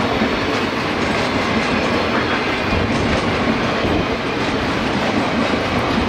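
Train rolling along the track: a steady, loud rumble and rattle of wheels and cars over the rails.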